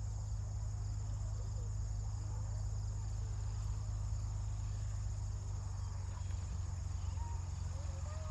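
Steady high-pitched insect chirring, like crickets, over a constant low hum.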